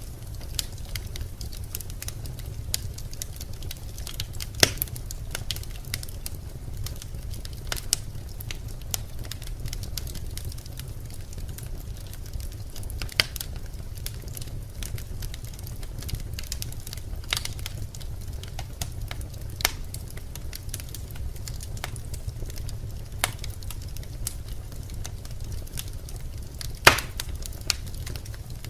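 Birch logs burning in a fireplace: a steady low rumble of the fire with scattered sharp crackles and pops, two louder pops about five seconds in and near the end.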